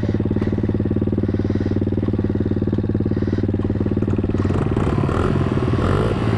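Small single-cylinder pit bike engine idling steadily; about four and a half seconds in, its note shifts and turns less even.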